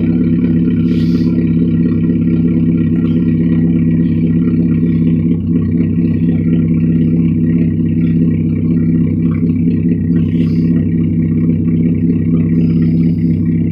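Chevrolet Cavalier engine idling steadily in 0°F cold shortly after a hard cold start, its very rough first running having settled.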